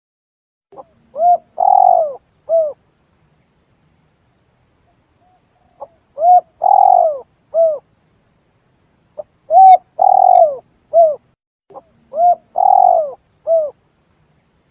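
Spotted dove (tekukur) cooing, a recorded lure call: four phrases a few seconds apart, each a short note followed by three coos, the middle coo the longest.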